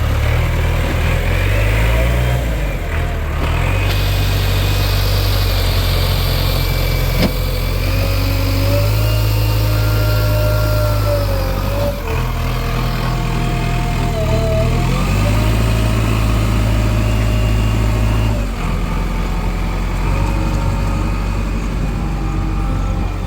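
Diesel engines of a JCB 3DX backhoe loader and a Mahindra tractor running during mud loading, the engine speed stepping up and down several times as the machine works. A wavering whine rises and falls over the engine, and there is one sharp knock about seven seconds in.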